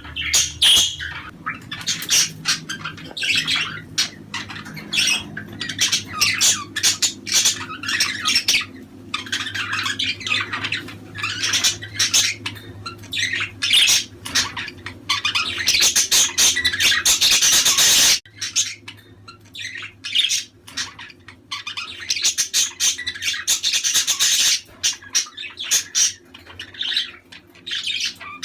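Budgerigars chattering, chirping and squawking in a dense, continuous jumble of short calls, with a low steady hum underneath. The background changes abruptly about 18 seconds in, like an edit in the recording.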